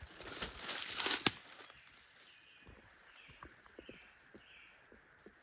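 Rustling and crackling in brush for about the first second and a half, with a few sharp snaps. Then four faint, short bird calls follow at an even spacing.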